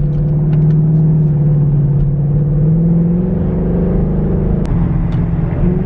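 S550 Ford Mustang GT's 5.0 V8 with a new aftermarket exhaust and the stock mufflers still on, running under light throttle while driving, heard from inside the car: a steady low drone whose pitch rises a little about three seconds in. One sharp click comes near the end.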